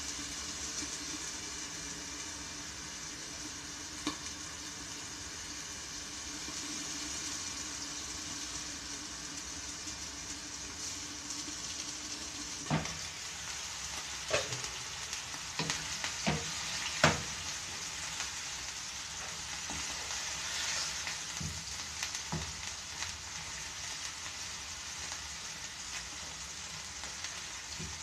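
Ground pork frying in a nonstick pan, a steady sizzle throughout. About halfway through a low hum stops and several sharp knocks follow as the glass lid is lifted off the pan.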